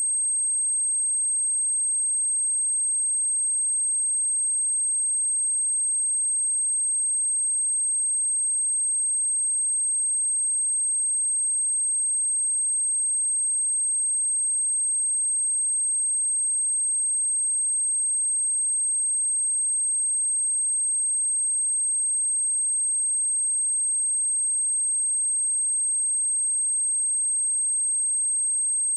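Electronically generated pure sine-wave test tone at 8391 Hz, a single steady high-pitched whistle held at constant level throughout, used as a speaker test and speaker-cleaning tone.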